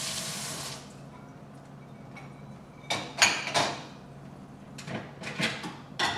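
Kitchen tap water running, shut off under a second in. Then a series of clattering knocks as plastic dishes are set into the dishwasher's top rack, loudest about three seconds in.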